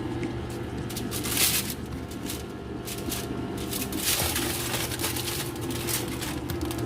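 Dishwasher running its wash cycle: the wash pump motor hums steadily under the hiss and patter of water spraying inside the tub.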